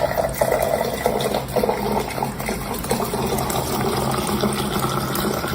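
Steady rush of running or pouring water.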